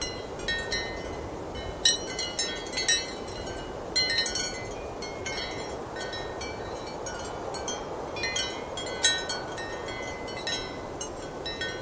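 Ceramic wind chimes clinking irregularly in strong wind, with clusters of bright, short rings over a steady rush of wind.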